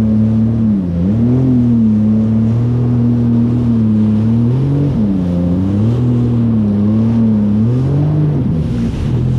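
Jet ski engine running under way, its pitch dipping and climbing back several times as the throttle is eased off and opened again.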